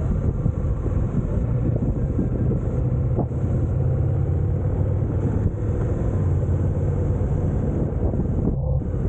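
Honda NC750X DCT's parallel-twin engine running steadily while the motorcycle is ridden, mixed with wind and road noise.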